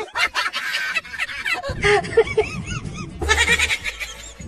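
An animal's short calls, several in a row, each rising and falling in pitch, starting a little under two seconds in.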